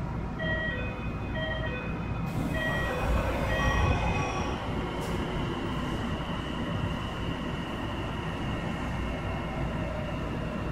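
Tsukuba Express TX-1000 series electric train running, heard from inside the car: a steady rumble of wheels on rail. In the first few seconds short stepped high tones come and go, the noise swells around the third to fourth second, and then a steady high whine carries on.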